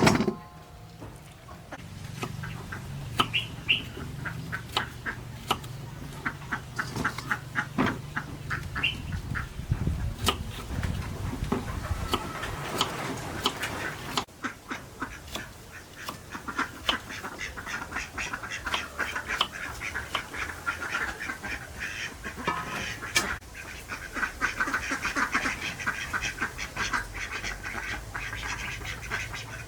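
Ducks quacking and squawking, many short calls close together throughout.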